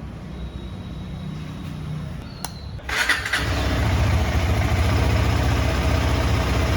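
KTM 250 Adventure's single-cylinder engine starting on the first press of the starter about three seconds in, then idling steadily. A click comes just before it catches. The one-press start, with the engine still warm, shows the cold-start trouble cured by the new spark plug and cleaned throttle body.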